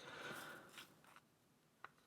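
Near silence: a faint soft rustle in the first half second and a tiny click near the end.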